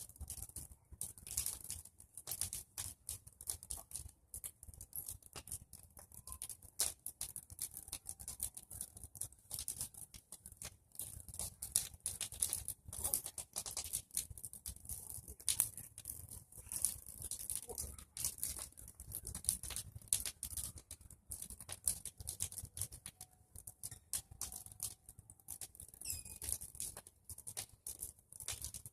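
Bonfire of pruned tree branches crackling, with dense, irregular snaps and pops.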